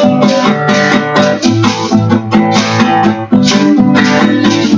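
Acoustic guitar strumming chords in a steady rhythm, an instrumental passage closing a gospel song.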